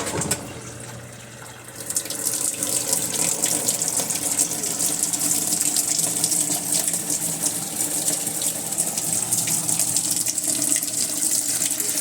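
Water rushing steadily inside an Electrolux LS12Q washing machine, starting about two seconds in, with a faint low hum underneath.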